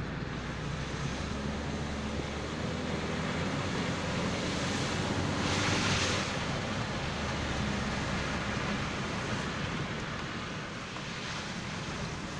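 An engine running steadily, with a rushing whoosh that swells to its loudest about halfway through and then fades.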